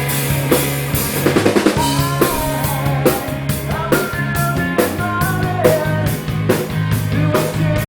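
Live rock band playing, with a drum kit beating out a steady rhythm over sustained bass notes and guitar lines; the music stops abruptly at the end.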